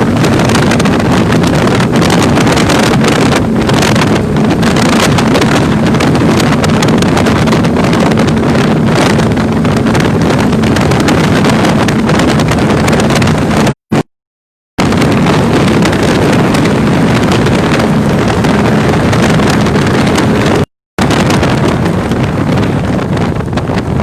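A 30-foot Chris Cat powerboat's engines running steadily under way, with heavy wind buffeting the microphone and rushing water. The sound cuts out completely twice, briefly.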